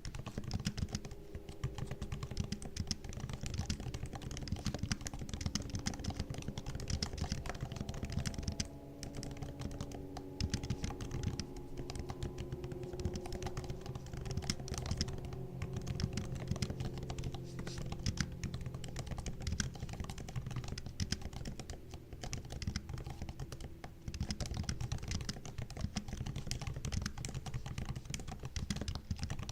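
MacBook laptop keyboard being typed on steadily: a continuous stream of quick, soft key clicks, with brief pauses about nine seconds in and again about three quarters of the way through.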